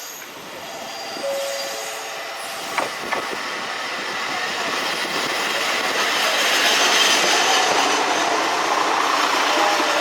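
Train running on rails. In the first two seconds there is a brief wheel squeal, then two sharp clicks around three seconds in, as from wheels over rail joints. After that the running noise builds steadily louder and holds.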